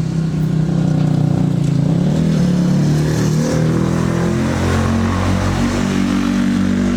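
A motor vehicle engine running steadily, its pitch drifting slightly up and down.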